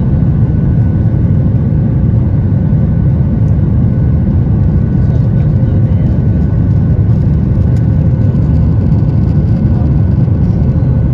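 Steady cabin noise inside a Boeing 737-800 airliner in flight: a loud, even rumble of engines and airflow with faint steady tones above it.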